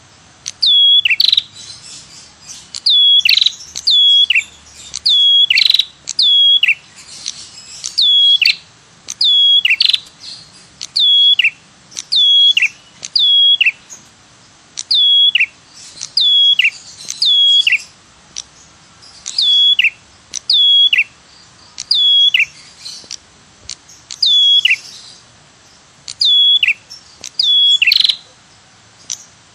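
Red-headed prenjak (cemplir) calling a repeated 'tirr tiirr': short notes sweeping down in pitch, mostly in pairs, a pair every second or two. This is a lure call used to draw the bird in for trapping.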